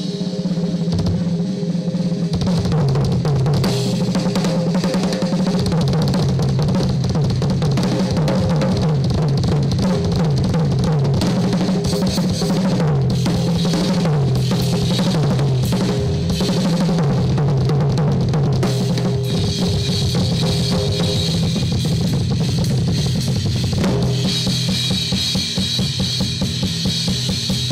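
Live drum kit solo: bass drum, snare and cymbals played fast and hard, with low sustained notes underneath.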